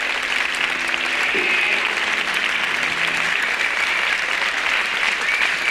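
Audience applause at the end of a live rock song, on an FM radio broadcast taped off-air to cassette. A faint held instrument note lingers under the clapping for the first three seconds or so.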